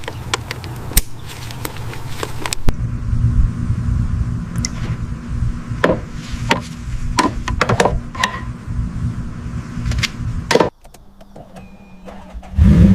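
Old car's engine running with a low rumble and frequent clunks and knocks. It cuts off suddenly about two-thirds of the way in, and an engine starts up loudly just before the end.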